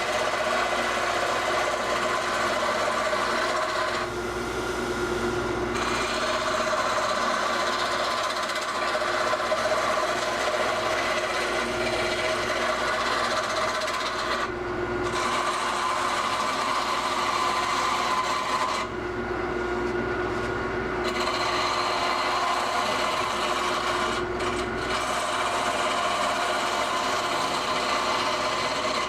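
Wood lathe spinning a cedar blank while a hand turning tool cuts it: a steady scraping hiss of the tool shaving the wood over the even hum of the lathe. The cutting breaks off briefly about four times as the tool is lifted away, leaving the lathe's hum.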